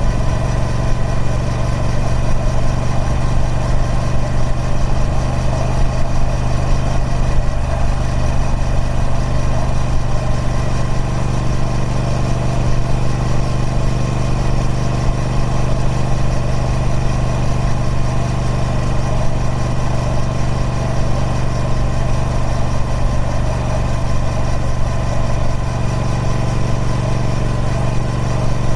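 Triumph Speed Twin 1200's 1200cc parallel-twin engine through its stock exhaust, running steadily at an even engine speed with no revving.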